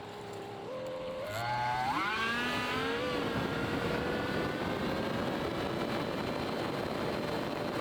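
Boat's outboard motor running low, then throttled up over about two seconds with a rising pitch, then running steadily at speed with a rush of wind and water.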